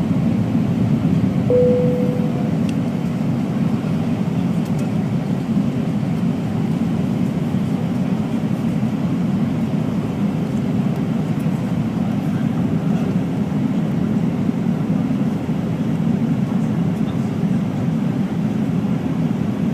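Steady cabin noise of an Airbus A319 airliner in flight on its way in to land: the engines and the airflow around the fuselage make a constant low rush with a faint steady hum. About a second and a half in, a single brief tone sounds and fades quickly.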